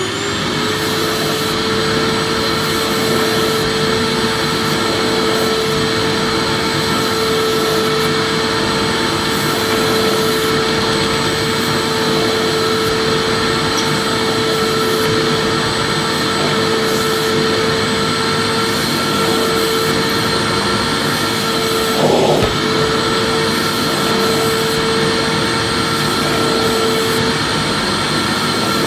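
Electric vacuum cleaner running steadily: a motor whine over rushing air. A brief louder bump comes about three-quarters of the way through.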